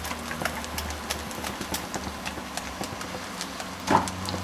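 Light, irregular crackling and ticking of the bacon, mushroom and pasta mix heating in a steel pot on a gas burner as cream is spooned in, over a steady low hum. A brief louder noise comes near the end.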